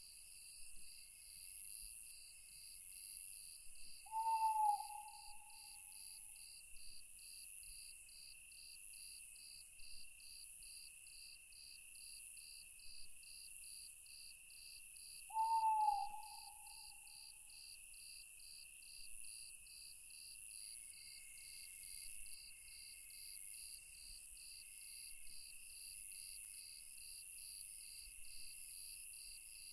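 An owl hooting twice, about eleven seconds apart, each hoot a single call that trails off. Under it, a steady night chorus of crickets and other insects chirps in an even pulse, about two chirps a second.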